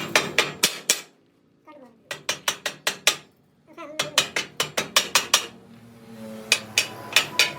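Rapid hammer blows on steel, in four bursts of about five quick strikes a second, each blow ringing briefly: metal being hammered during repair of a truck wheel rim.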